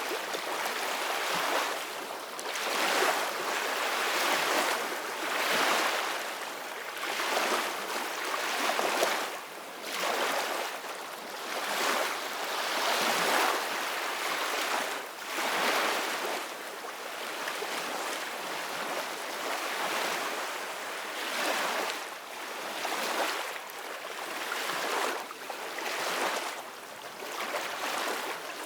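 Ocean waves washing onto a beach, a continuous surf hiss that swells and eases every second or two.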